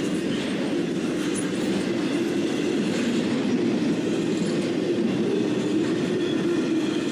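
Freight train's intermodal cars (well cars and flatcars) rolling past at a steady speed: a steady, even noise of steel wheels on the rails.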